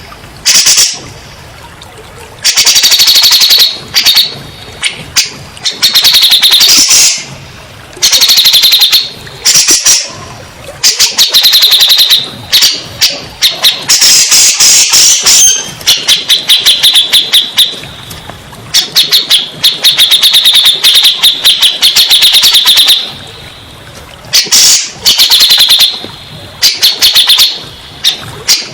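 Cak jenggot (black-throated laughingthrush) song: loud phrases of rapid chattering notes, each one to two seconds long with short pauses between them, repeated over and over. This is a lure or 'therapy' recording meant to provoke caged birds into singing.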